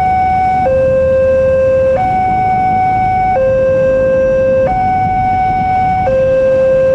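Railway level-crossing warning alarm sounding a loud two-tone signal, alternating between a lower and a higher tone about every second and a half.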